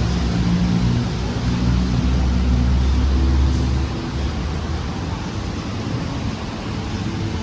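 Motor vehicle traffic: a steady engine hum with road noise, easing off about four seconds in.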